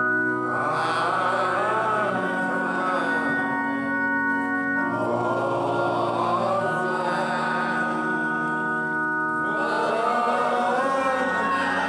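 Gospel worship music: singers with vibrato over sustained keyboard chords that change every two to three seconds.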